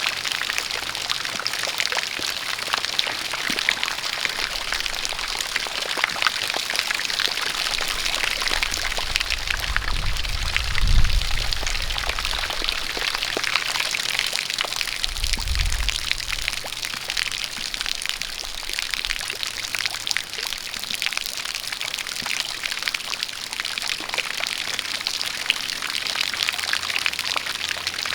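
Steady rain with a jet of water pouring, a dense patter of drops over a continuous rush. A low rumble swells briefly twice, about ten and about fifteen seconds in.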